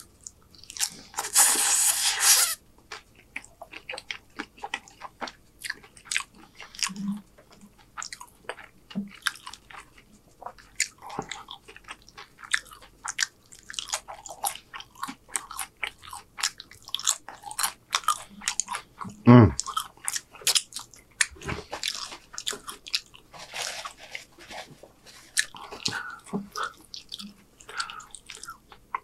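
Close-miked eating of cheese-covered tortilla-chip nachos: a loud crunching bite about a second in, then a long run of crunches and wet mouth clicks as the chips are chewed. A short falling vocal sound from the eater about two-thirds of the way through is the loudest moment.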